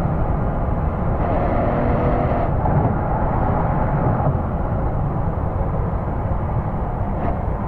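Exhaust of a 2001 Porsche Boxster S's 3.2-litre flat-six running while the car is driven, heard close at the tailpipe as a steady low rumble. A higher tone rides over it from about one to four seconds in.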